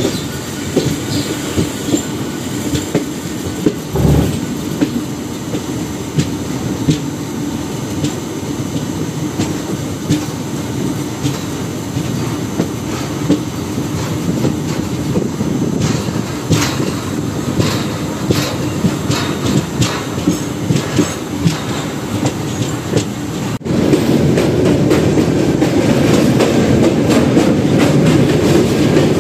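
Malabar Express passenger train running at speed: a steady rumble of wheels on the track with clicking from the rail joints and some wheel squeal. The rumble gets suddenly louder near the end.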